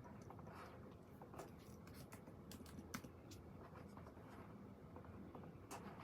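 Faint pen-on-paper writing: small irregular scratches and taps over a low steady room hum.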